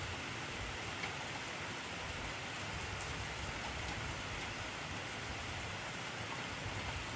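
Heavy rain falling steadily, an even hiss of countless drops with no let-up.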